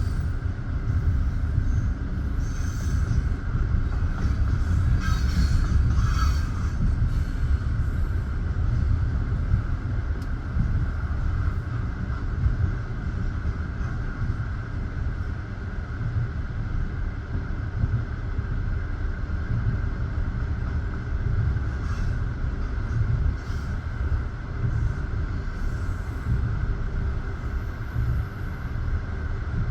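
Passenger railway carriage running along the track: a steady rumble of wheels on rail with a constant high whine above it, and a few brief squeaks in the first several seconds.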